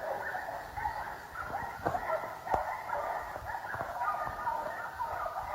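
Hunting dogs whining and yipping in a continuous chatter of short, high calls.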